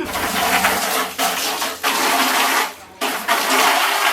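Water rushing out as a hot tub is drained, coming in three surges of a second or more each with short breaks between.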